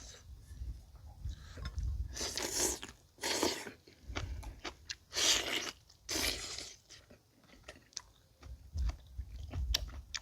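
A person eating boiled pig's trotter: chewing and biting with wet mouth clicks, broken by four short, loud, noisy bursts in the middle.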